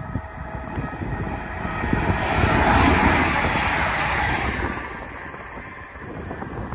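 Red electric multiple-unit regional train passing at speed: a rushing swell of wheel and air noise that builds, peaks about three seconds in and fades away within a couple of seconds.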